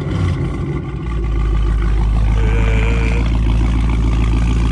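Dodge Charger Scat Pack's 392 Hemi V8 with an aftermarket exhaust just after a cold start: the start-up flare dies back about a second in, and the engine settles into a loud, steady, deep idle.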